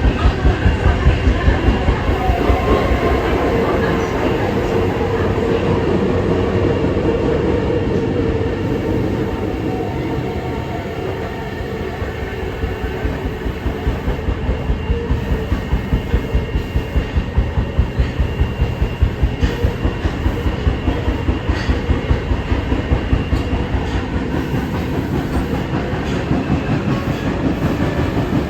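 Kita-Osaka Kyuko 9000 series electric train running between stations: a steady rumble of wheels on rail with an even, rapid clatter. It eases slightly about ten seconds in, then builds again.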